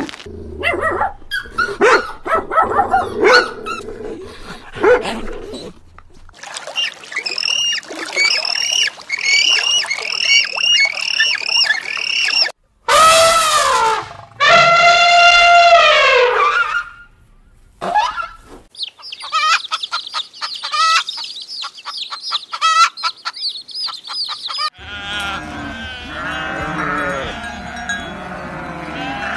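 A string of different animal calls, the loudest a long call in the middle that rises and then falls in pitch; near the end a herd of goats bleating over one another.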